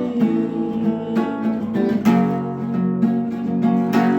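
Acoustic guitar strumming chords between sung verses of a song.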